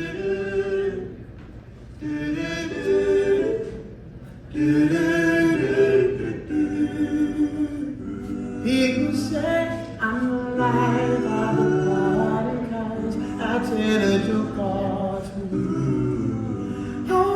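Male vocal group singing a Motown song in close harmony, a cappella or nearly so. Soft at first, then fuller and louder from about four and a half seconds in.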